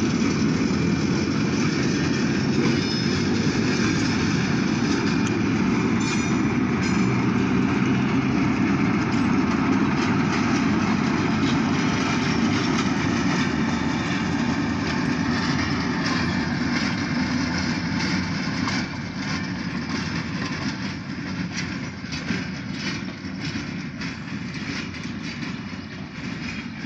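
Alco S-2 switcher locomotive's turbocharged six-cylinder diesel running as the locomotive moves by light, with scattered clicks from the wheels on the rails. The sound fades away over the last several seconds.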